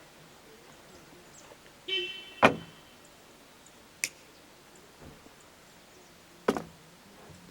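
Three sharp wooden knocks a couple of seconds apart, like split firewood pieces striking each other. The first knock is the loudest and follows a brief squeak.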